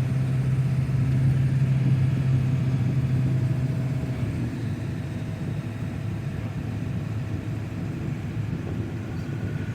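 Vehicle driving on the road: a steady low engine drone over road rumble, the drone easing off about four seconds in while the rumble carries on.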